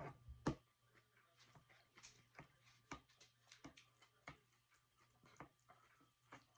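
Faint, close-up eating sounds: chewing and mouth clicks come irregularly, a few a second, with one sharper click about half a second in.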